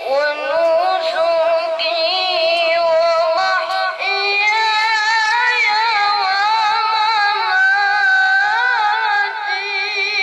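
A child qori's high voice chanting Quranic recitation (tilawah) in long held notes with wavering ornaments. A new phrase starts about four seconds in.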